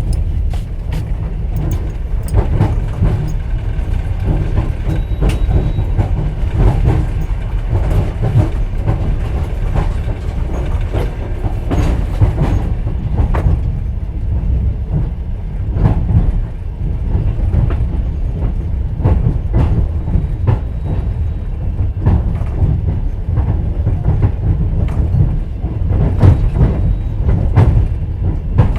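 Wheels of a moving passenger train heard inside an open-berth sleeper carriage: a steady low rumble with wheels clacking over rail joints and frequent short knocks and rattles.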